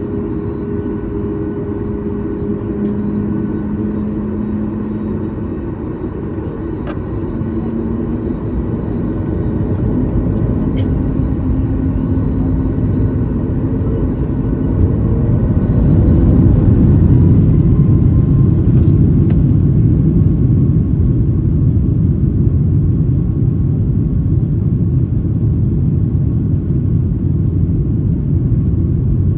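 Boeing 737 MAX 8's CFM LEAP-1B turbofans at takeoff thrust, heard from inside the cabin during the takeoff run. Steady engine tones sound over a deep rumble, and the rumble grows heavier and louder about halfway through.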